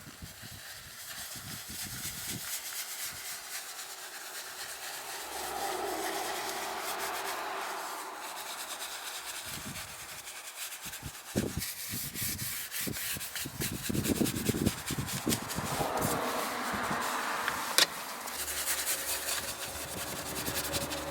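Brush scrubbing the interior surfaces of a truck, an uneven run of rubbing strokes that grows louder in the second half, with one sharp click near the end.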